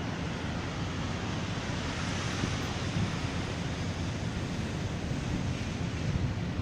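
Steady rushing wind and road noise from a vehicle driving through a snowstorm, with a low rumble underneath.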